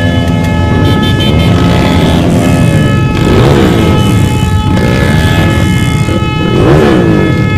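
Honda CB motorcycle engines being revved again and again in a crowd of motorcycles, each rev rising and falling in pitch over the steady running of many other engines.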